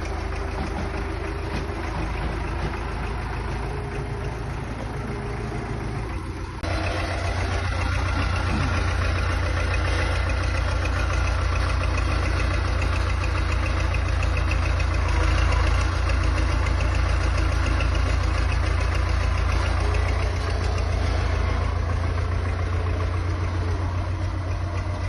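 Vehicle engine running steadily at low revs, with a deep, even drone that steps up abruptly in loudness about six and a half seconds in and then holds.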